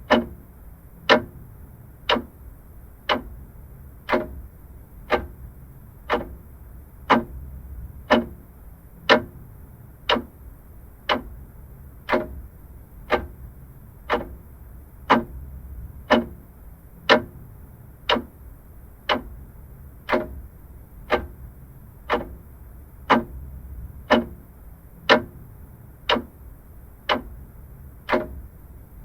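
Vintage clock ticking steadily, about one tick a second.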